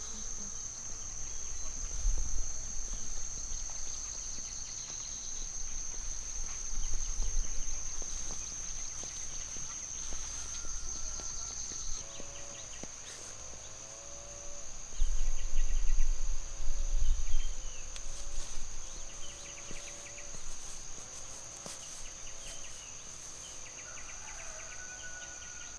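A steady, high-pitched insect drone, with an animal giving a run of short pitched calls in the middle. Low rumbles come and go, loudest in the middle.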